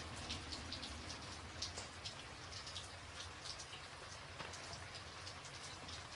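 Rain falling on a tin roof: a steady hiss with many separate drops striking the metal.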